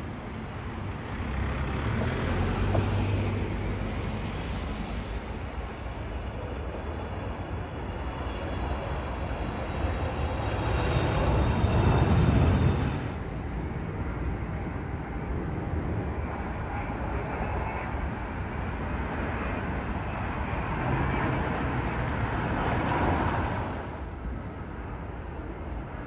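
Continuous outdoor vehicle noise that swells and fades three times, loudest about halfway through, as vehicles pass by.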